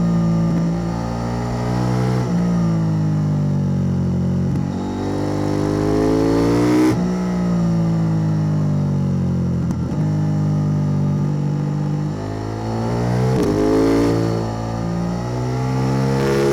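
KTM 890 Duke R's parallel-twin engine through a Spark Dyno double slip-on exhaust, pulling under way: the revs climb and then drop sharply at gear changes, about four times.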